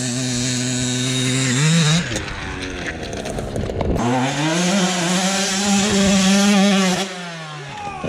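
Dirt bike engines revving, in short segments that change abruptly about two and four seconds in. The engine note climbs briefly, then holds high and steady for a few seconds before falling away near the end.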